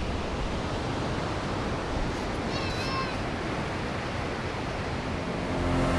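Steady rush of sea surf and wind. About halfway through there is one brief, high-pitched call.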